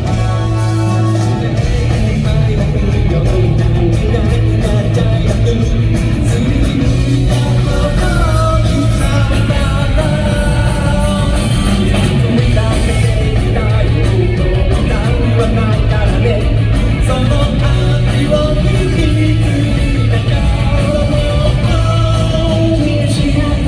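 Live rock band playing loud, with electric guitars, bass and drums and a voice singing over them.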